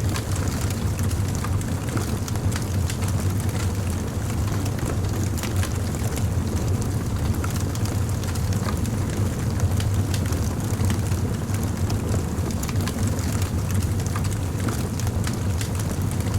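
Wood fire crackling steadily: many small scattered pops and snaps over a continuous low rumble.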